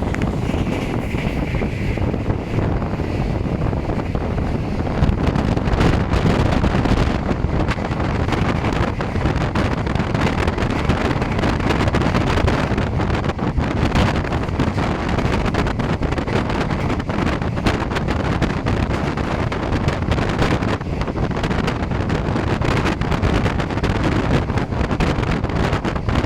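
Wind buffeting the microphone over a steady low rumble, with scattered faint clicks throughout.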